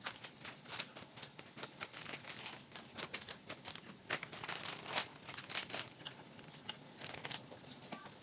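Plastic packaging crinkling and rustling as it is handled, with irregular small crackles and clicks throughout.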